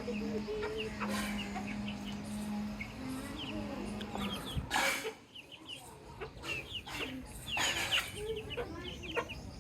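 Baby chicks peeping: many short, high chirps that fall in pitch, with lower chicken clucks among them near the start. A steady low hum runs underneath until about halfway through, and several brief scratchy noise bursts come in the second half.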